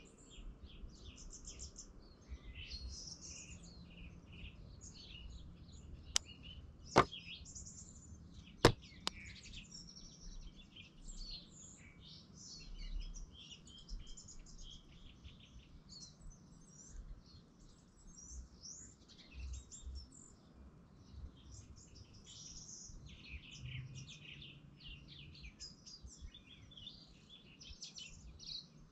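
Small birds chirping and trilling continuously in the background. Four sharp clicks come between about six and nine seconds in and are the loudest sounds.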